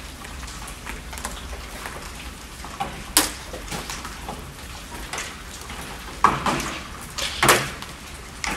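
Rainfall: a steady light patter with scattered sharper drops, the loudest about three seconds in and twice more between six and eight seconds.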